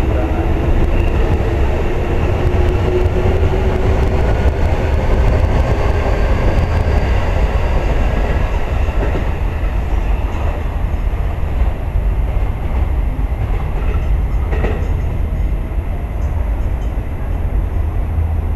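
Steady low rumble of a train running, with a faint whine in the first half that fades out, and a single brief knock near the end.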